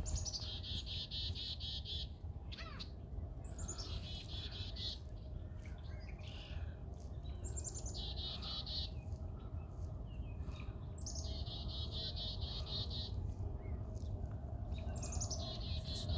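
A small songbird singing the same short song five times, about every three and a half seconds. Each song is a quick falling note followed by a high rapid trill lasting one to two seconds. A steady low background rumble runs underneath.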